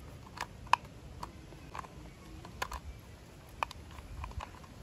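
Light, irregular clicks and taps of hard plastic toy parts being handled and snapped into their clips.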